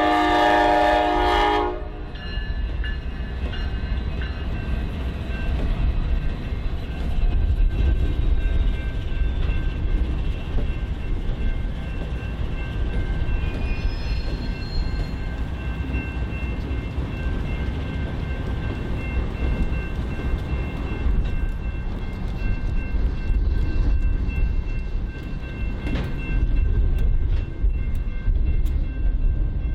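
Freight train locomotive horn sounding a chord that cuts off about two seconds in, followed by the steady low rumble of the freight train rolling past.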